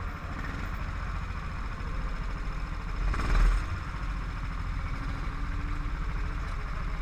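Car engine idling steadily, heard through an onboard camera, with a brief louder noise about three seconds in.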